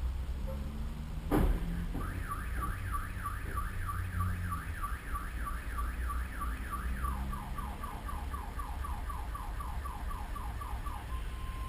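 A sharp bang, then a car alarm sounding: rapid rising whoops, about four a second, switching about seven seconds in to rapid falling chirps at the same pace, over a low engine and road rumble.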